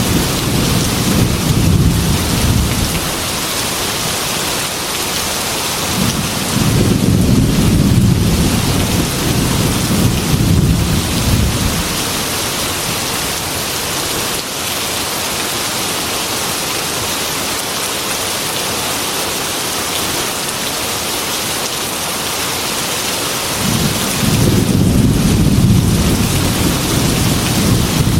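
Heavy rain beating steadily on window glass in a thunderstorm, with long low rolls of thunder: one fading out a few seconds in, another lasting several seconds in the first half, and a third building near the end.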